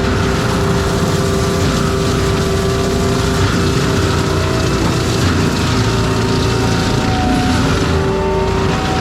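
Tracked forestry mulcher working, its diesel engine running hard under steady load with a whining tone that slides in pitch now and then as the cutting drum takes on and clears brush.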